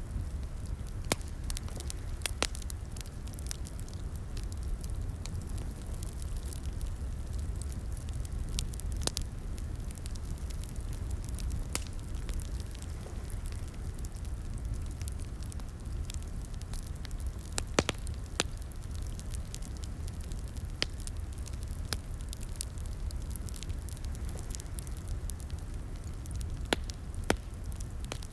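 Wood fire crackling in a fireplace: a steady low rumble of flames with irregular sharp pops and snaps, a few louder ones standing out.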